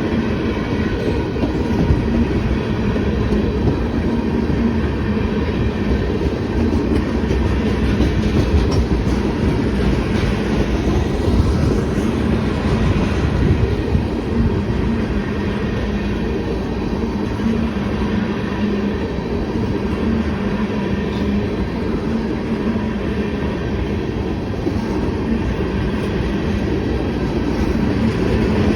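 Freight cars of a manifest train rolling steadily past, a continuous rumble of wheels on rail with some clickety-clack.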